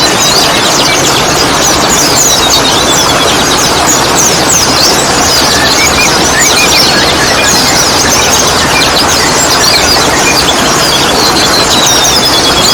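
Many yellow-vented bulbuls chirping and chattering together in quick, overlapping downward notes, over a loud steady rushing noise.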